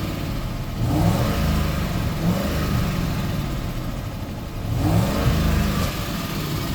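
2010 Ford F-250 gasoline engine revved in three quick blips, the second one smaller, dropping back toward idle between them. The engine runs a little louder than normal, which the owner thinks could be lack of lubrication that an oil change might improve. It is not a valve or lifter tick.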